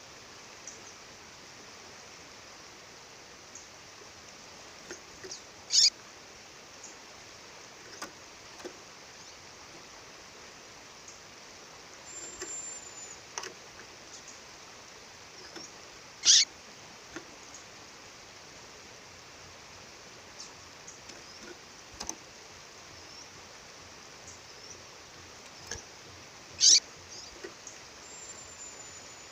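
A female songbird calling: three loud, short calls, each sweeping sharply down in pitch, about ten seconds apart, with faint chips and two thin high whistles in between. Under them runs the steady rush of a waterfall.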